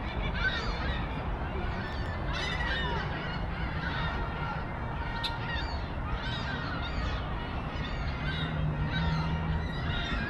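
A flock of birds calling over one another in many short, quick calls, over a steady low rumble of outdoor noise.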